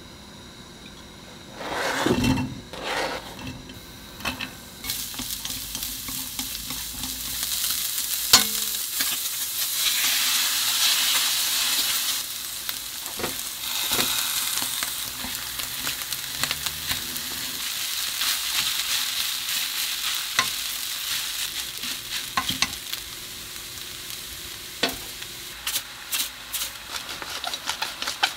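Fried rice with pickled radish, sausage and egg sizzling in oil in a frying pan. It is stirred and turned with a wooden spatula, with scattered clicks and taps against the pan. The sizzle picks up within the first few seconds and then holds steady.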